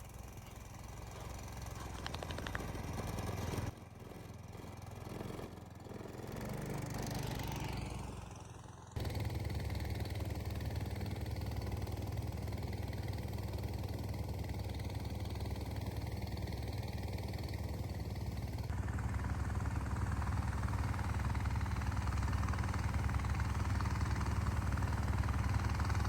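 An engine running steadily with a fast, even pulse and growing slowly louder. The sound changes abruptly about four and nine seconds in.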